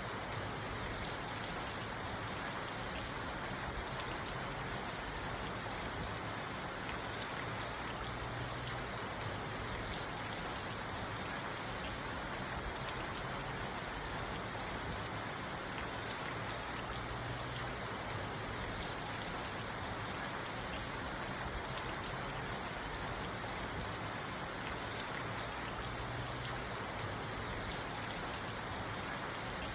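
Steady rain falling on a parked car, heard from inside the car, with a dense, even hiss of drops on the body and glass.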